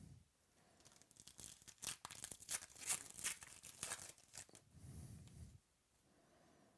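A trading-card pack wrapper being torn open and crinkled by hand, heard as a dense run of sharp crackles for a few seconds starting about a second in.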